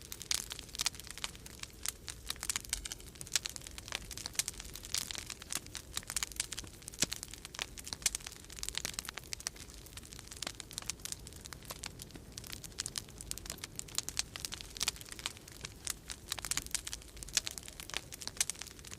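Wood fire crackling in a fireplace: dense, irregular pops and snaps over a low, steady rumble of winter storm wind.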